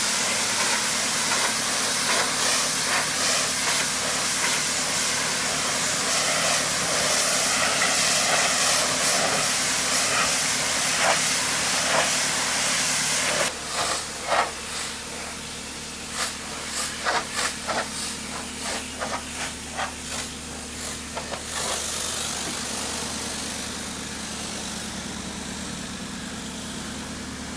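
Pressure washer spraying with a steady hiss over the steady hum of its motor. About halfway through, the spray breaks into short bursts for several seconds, then settles back to a quieter steady hiss.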